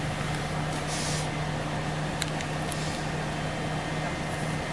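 Scania OmniLink CL94UB city bus heard from the passenger saloon: a steady low engine hum over a haze of running noise, with a short hiss about a second in and a sharp click a little after two seconds.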